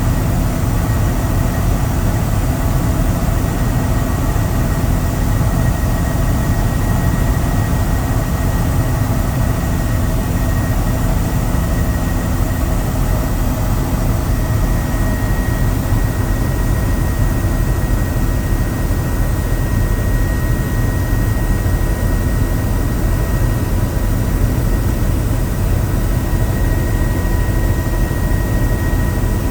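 Helicopter in flight, heard from on board: a steady, loud low drone of rotor and engine with a thin steady whine above it, unchanging throughout.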